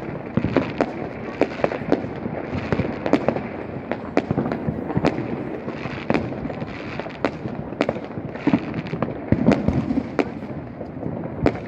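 Fireworks and firecrackers going off in quick, irregular succession: many sharp bangs and cracks, several a second at times, over a continuous din of further explosions.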